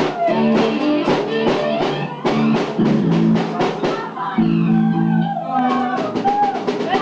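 Live rock band playing a hard-rock cover on drum kit and electric guitar: steady drum hits under sustained guitar chords.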